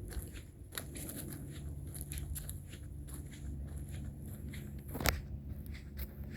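Footsteps walking along a trail, a steady run of short crunching steps over a low rumble, with one sharper knock about five seconds in.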